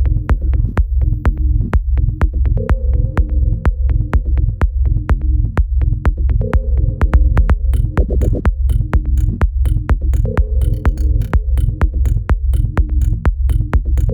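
An electronic dance music loop in progress: a steady beat over a repeating bass and synth pattern. Crisp high ticks join the beat about ten seconds in.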